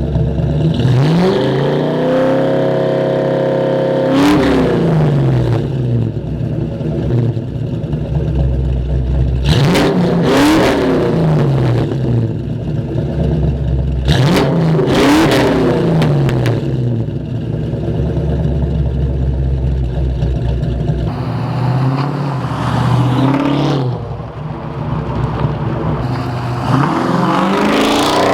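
1990 Ford Mustang 302 V8 with an E-303 cam, running through shorty headers, a catless X-pipe and hollow SLP LM1 bullet resonators. It is extremely loud with some rasp. It idles and is revved four times, each rev rising and falling; the first is held high for about two seconds.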